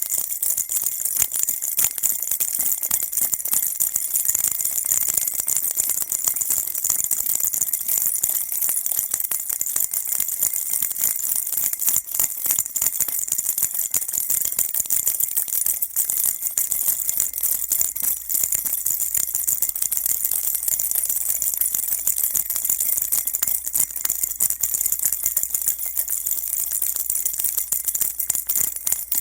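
Baby rattle shaken continuously, a dense, even stream of high jingling and rattling with no pauses.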